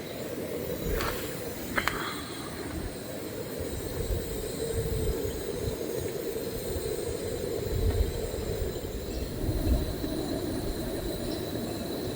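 Wind blowing as a steady rushing, with irregular gusts buffeting the microphone in low thuds. There are two light clicks about one and two seconds in.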